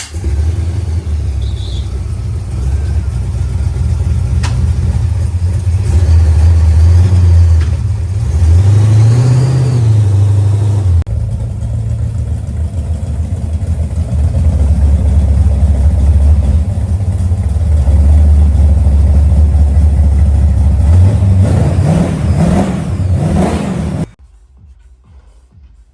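Car engine running with a deep, steady rumble, revved up and back down once about nine seconds in and again briefly near the end, then cut off abruptly.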